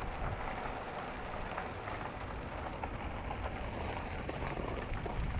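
E-bike tyres rolling over a loose trail surface: a steady crackling hiss, flecked with faint ticks of grit.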